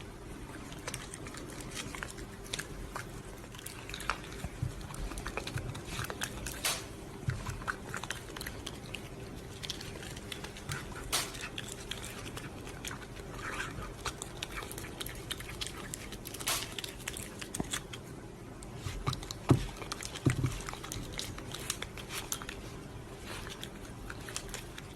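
A pet chewing: irregular crunches and clicks over a steady low hum.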